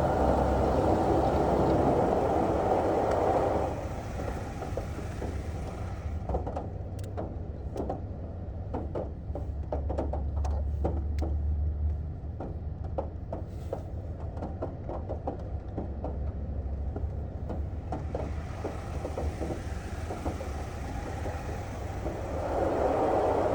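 Automatic car wash heard from inside the car, over a low engine hum: a steady rushing spray for the first few seconds, then a long stretch of many scattered ticks and slaps on the body, then the rushing spray again near the end.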